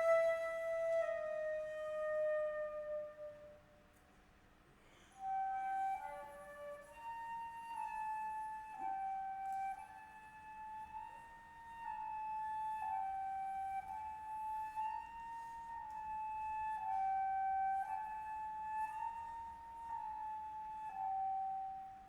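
Flute playing a contemporary piece: a held note slides slowly downward and fades away, then after a short pause a quiet, regular figure of long notes stepping back and forth among a few pitches, over a faint steady low tone.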